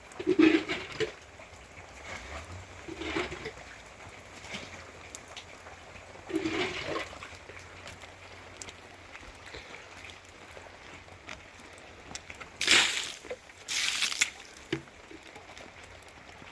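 Water splashing and running, with two louder rushing splashes near the end.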